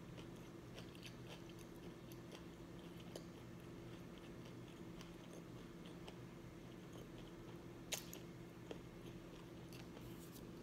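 Faint close-up chewing of a mouthful of gyro whose meat is hard and dry: many small wet clicks from the mouth, with a sharper click about eight seconds in. A steady low hum runs underneath.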